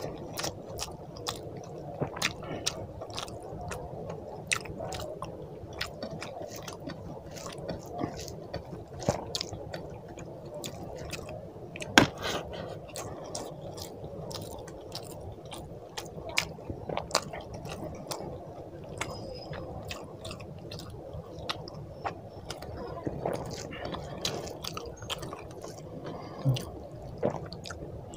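Wet chewing of handfuls of rice with fish and mutton curry, mixed with the squish of rice being worked together by hand, and frequent short clicks throughout. One click about twelve seconds in is much louder than the rest.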